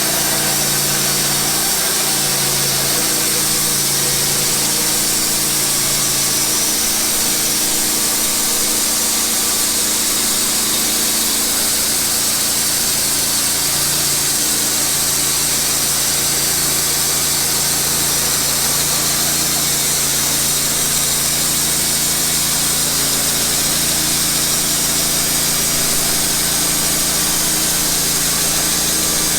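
Wood-Mizer portable band sawmill running steadily, its engine under load as the band blade cuts through a pine log.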